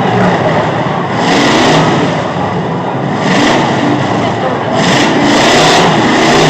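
Demolition derby truck engines revving hard in repeated surges.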